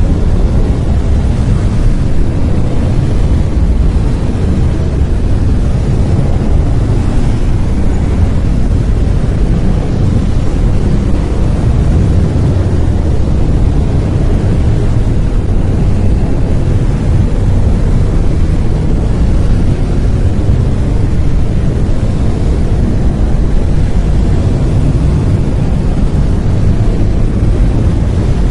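Brown noise: a steady, deep rumbling hiss, strongest in the bass and fading toward the treble, with no change.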